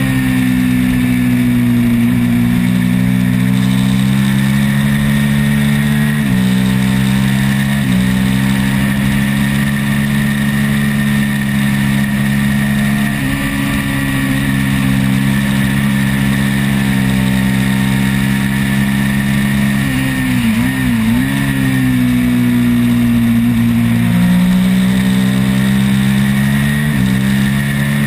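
Twin-cylinder race motorcycle engine running hard at high revs, heard onboard through heavy wind rush. The engine note jumps at several gear changes, and dips and wobbles briefly about two-thirds of the way through before climbing again.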